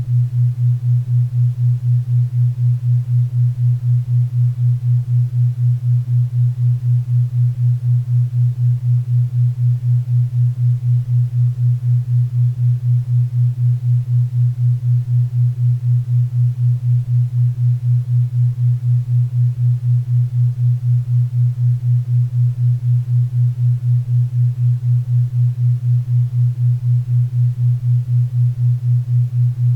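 Synthesized 4 Hz theta-wave beat tone: a steady low hum pulsing evenly about four times a second, over faint pink and brown noise.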